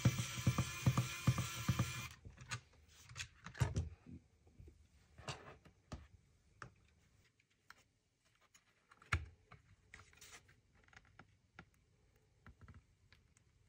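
A small motor whirs steadily and stops about two seconds in, followed by scattered light clicks and taps of small parts being handled.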